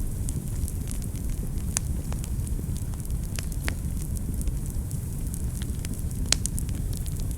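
Wood fire burning in a fireplace: a steady low rumble of the flames with irregular sharp crackles and pops, the loudest pop about six seconds in.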